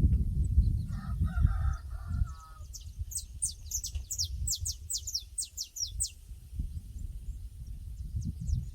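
Outdoor pasture ambience under a low wind rumble. Around a second in comes a short, lower bird call, then a fast run of high, downward-sweeping songbird chirps for about three seconds.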